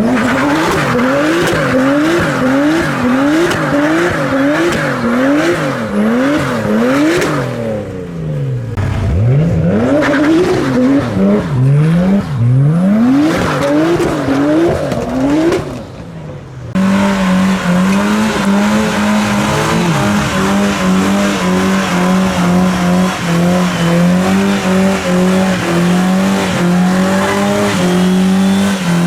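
A car engine revved hard up and down over and over, with tyres squealing, as in donuts or a burnout. About two-thirds of the way through it gives way to a steadier held engine note that wavers slightly.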